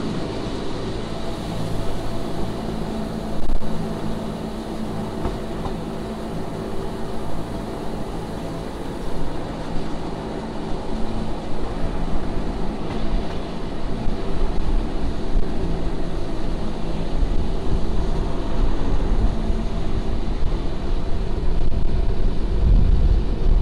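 Wengernalpbahn rack-railway train running, a continuous rumble of wheels and running gear with a steady low electric hum. The rumble grows louder near the end.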